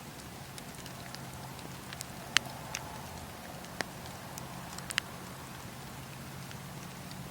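Wood fire crackling in a fireplace: a steady soft hiss with scattered sharp pops and snaps. The loudest pops come about two and a half seconds in and around five seconds in.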